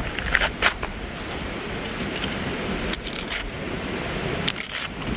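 Gusting wind rumbling on the microphone, with a few light metallic clinks of the thin plates of a modular firebox camp stove being handled: two near the start, a cluster about three seconds in and more near the end.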